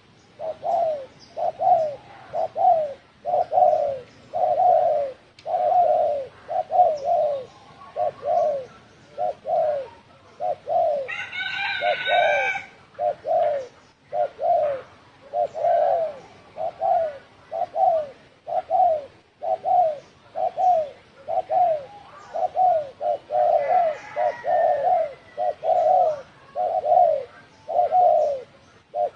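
Spotted dove cooing in an unbroken run of short, even coos, a 'thổ sấm' voice played as a lure to stir up wild doves. A brief, higher call of another bird breaks in about eleven seconds in.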